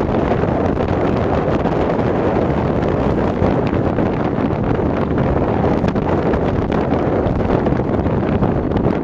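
Freight train rolling past: a steady, loud rumbling clatter of wheels on the rails, with faint clicks now and then.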